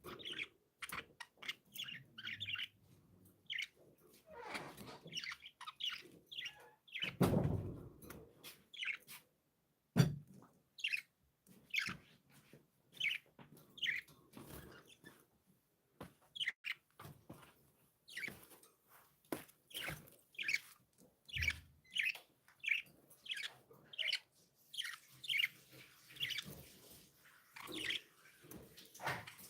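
Budgerigars chirping and warbling in quick, short calls throughout. About seven seconds in there is a louder, longer rustle, and at about ten seconds a single sharp knock.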